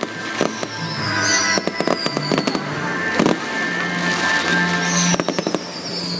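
Fireworks going off in quick bangs and crackles over loud music, with two high whistles that fall in pitch, one near the start and one about five seconds in.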